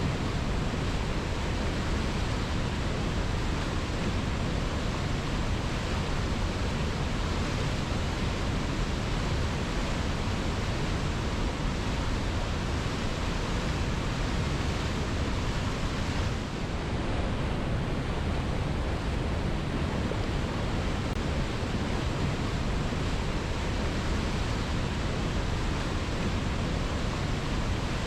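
Waterfall pouring over rocks: a steady, dense rush of falling water with no let-up, its hiss briefly dulling about two-thirds of the way through.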